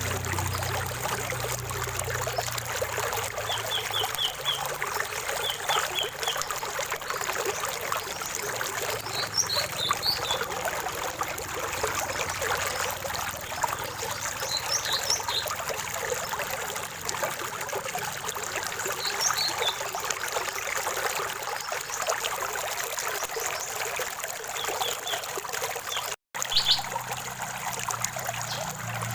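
Running water in a small stream, trickling and splashing steadily, with a small bird's short high chirps coming in brief groups every few seconds over it. The whole sound cuts out for an instant once near the end.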